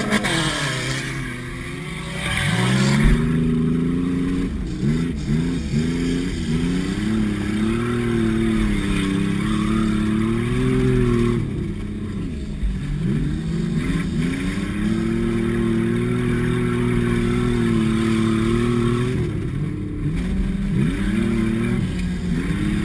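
Car engine heard from inside the cabin while racing on dirt, revving up and easing off repeatedly: the pitch climbs and holds, drops sharply near the middle, climbs again and drops near the end. A low thump about three seconds in is the loudest moment.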